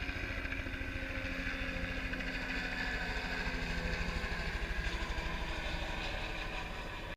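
Helicopter in flight: a fast, even beat of the rotor blades low down, with a steady higher turbine whine over it.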